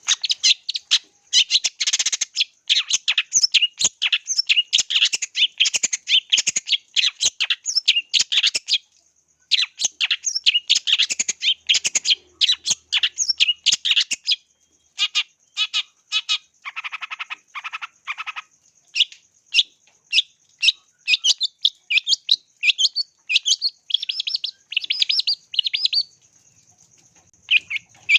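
Long-tailed shrike (cendet) singing in fast, dense runs of sharp chattering notes, broken by short pauses about 9 s in, 15 s in and near the end. A steady thin high tone runs underneath.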